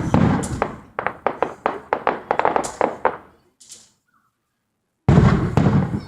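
Fireworks going off: a quick run of sharp crackling pops over the first few seconds, then another loud bang about five seconds in.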